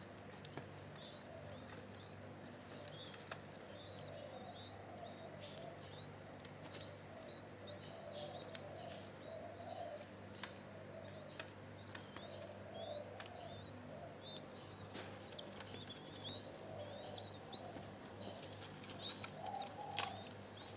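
Birds calling: a steady run of high, rising-and-falling chirps about once a second, over lower, softer calls typical of spotted doves cooing. The chirps get louder in the last few seconds.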